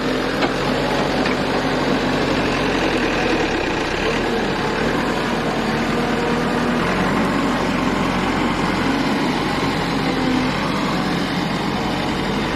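A heavy machine's diesel engine running steadily, its pitch shifting slightly now and then.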